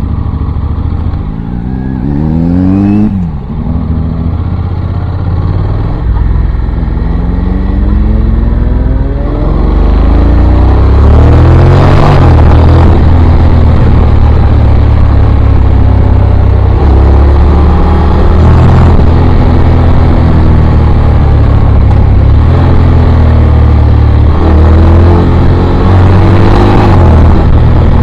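Motorcycle engine accelerating hard. Its pitch climbs and falls back at each gear change, about three seconds in and again near twelve seconds, then it runs steady at high revs.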